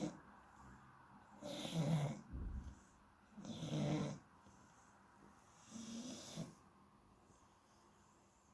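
Sleeping Shar Pei snoring: three rasping snores about two seconds apart, the third weaker, then a quieter stretch.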